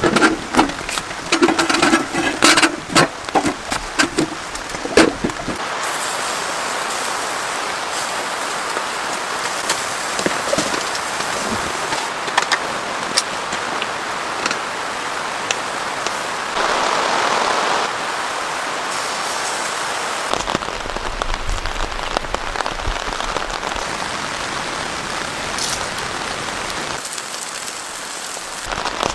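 Heavy rain falling in a steady hiss. For roughly the first six seconds it is broken by many sharp knocks and clicks.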